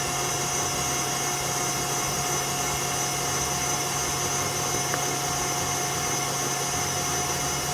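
Steady whir of a small electric motor, like a fan or vacuum-type appliance, with a constant high whine and a low hum that do not change.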